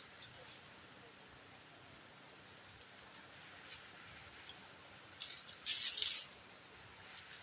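Faint, short, high chirps and scattered small clicks over quiet forest ambience, then a brief loud rustle or crackle about six seconds in.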